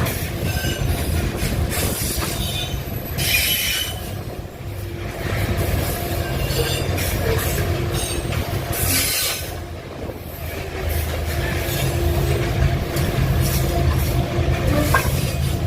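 Diesel-electric freight train locomotives running with a steady low engine hum as the train rolls past. High-pitched wheel-on-rail squeal comes in a few seconds in and again just past the middle.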